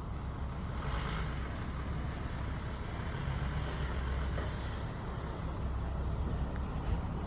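Heavy diesel engine running steadily, a low rumble with a noisy mechanical wash over it.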